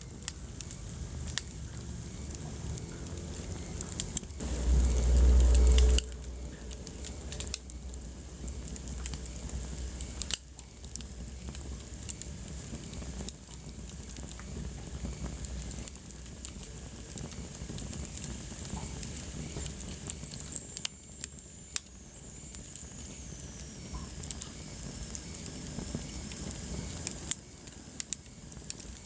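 Wood fire crackling, with scattered sharp snaps and pops over a soft steady hiss. About five seconds in, a loud low rumble lasts a little over a second, and later a faint high whistle slowly falls in pitch.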